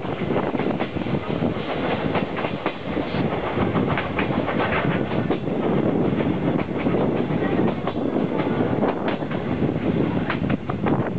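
Steam-hauled passenger train rolling along at speed, its wheels clattering steadily over the rail joints in a dense rumble with many quick clicks.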